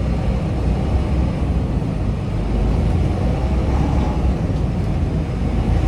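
Semi truck's diesel engine running steadily under way, a constant low rumble with road noise.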